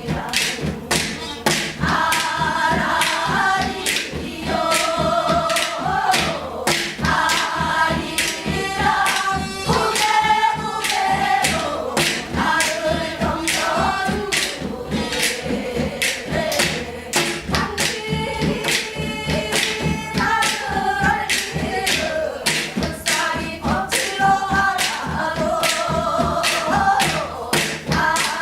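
Korean gyeongseodo folk song sung by several voices together, the melody wavering and breaking between phrases, over a steady beat of drum strokes.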